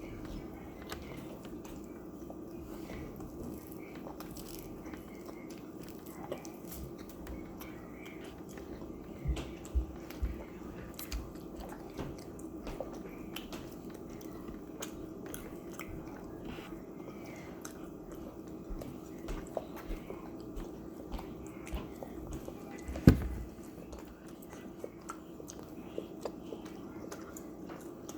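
People chewing and biting food, with small clicks of mouth and utensil sounds over a steady low hum. About twenty-three seconds in there is one sharp, loud knock.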